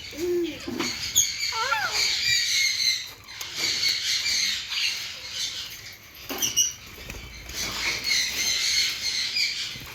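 Small caged birds chirping and chattering together in a dense, continuous high twitter, with a few lower calls near the start and a short sharp click about six and a half seconds in.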